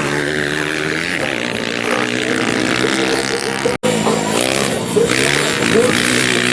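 Several 150 cc motocross bikes' engines running and revving, rising and falling in pitch, with a momentary dropout a little past halfway.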